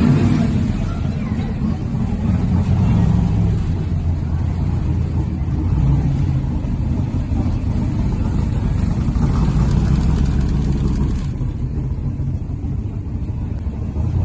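Shelby Cobra 427's big-block V8 engine running loudly through its exhaust, its note swelling and falling as it is revved.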